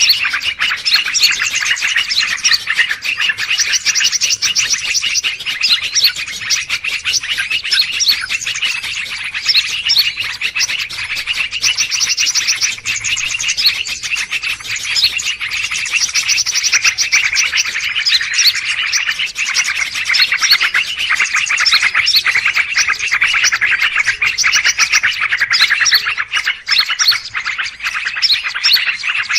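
Dense, unbroken chorus of many small songbirds chirping and chattering at once, a bird-lure recording of noisy, agitated calls.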